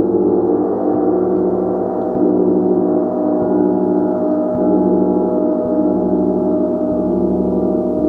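Gong played with soft, regular mallet strokes about once a second, keeping up a steady, sustained wash of ringing overtones.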